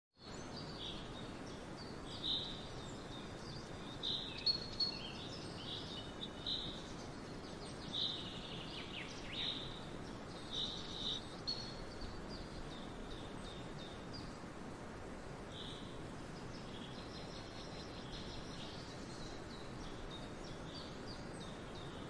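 Birds chirping in short high calls, frequent in the first half and sparser later, over a steady background hiss of outdoor noise.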